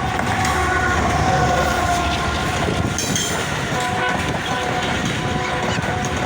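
Express train passing close by, led by a GEU-40 diesel-electric locomotive: a steady rumble and clatter of wheels on the rails. A horn sounds over it with a slight fall in pitch during the first couple of seconds, and fainter held tones return about four seconds in.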